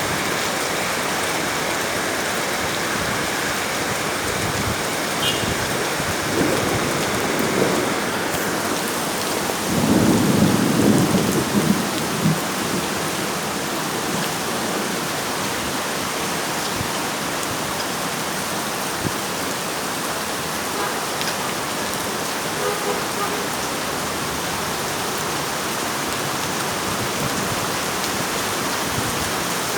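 Heavy rain pouring down steadily, with a louder low rumble for about two seconds around ten seconds in.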